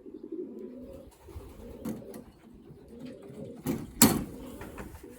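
Racing pigeons cooing throughout, low wavering calls, with a sharp knock about four seconds in.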